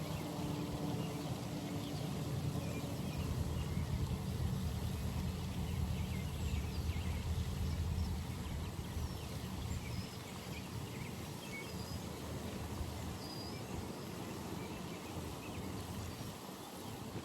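Low rumble of a distant engine that fades away about two-thirds of the way through. A few faint bird chirps come over the outdoor background hiss.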